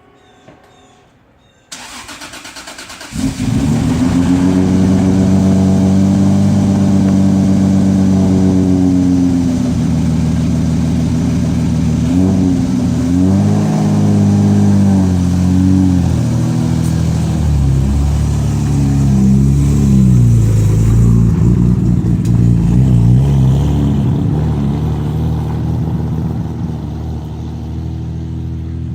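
Car engine cold start: the starter cranks for about a second and a half, then the engine catches and settles into a steady fast idle. Later the engine note rises and falls as the car pulls away, easing off near the end.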